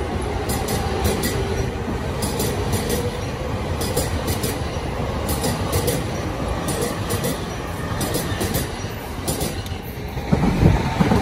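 JR Chuo-Sobu Line local electric train running along the platform: a steady rumble of wheels on rail with irregular clacks. About ten seconds in, it cuts to a louder, deeper train rumble.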